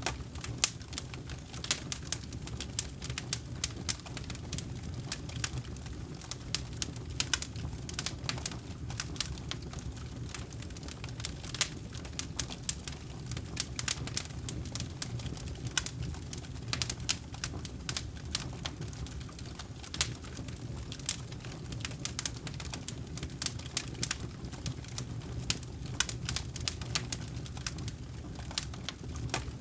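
Campfire burning: wood crackling with frequent, irregular sharp pops over a steady low rumble.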